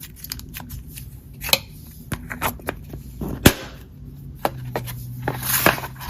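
Slime being squished and poked by hand, giving irregular sticky clicks and pops, the loudest about halfway through, over a faint steady hum.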